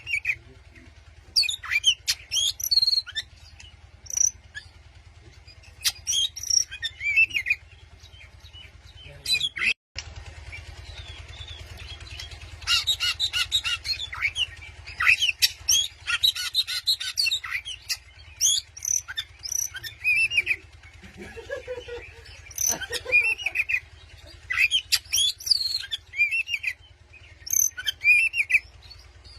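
Oriental magpie-robin (kacer) singing a loud, varied song in bursts of whistles, chirps and rapid trills, with short pauses between phrases, over a steady low hum. The sound cuts out completely for a moment about ten seconds in.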